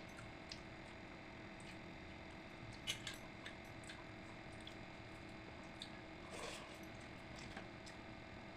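Faint eating sounds from a meal of pakhala, rice soaked in water: soft wet squishes and small scattered clicks, the loudest about three seconds in, over a steady low hum.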